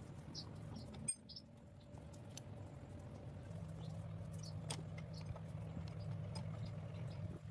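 Quiet hand-tool work on rusted bolts: scattered light clicks and metallic taps, with a sharp click about a second in, over a steady low hum and short high chirps.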